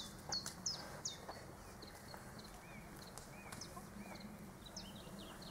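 Faint birdsong: scattered short chirps and whistled notes, over a low steady background rumble.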